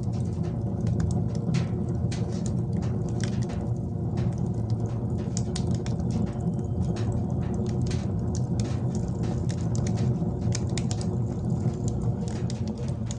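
Wood fire crackling inside a wood-burning stove: irregular sharp pops and ticks over a steady low hum.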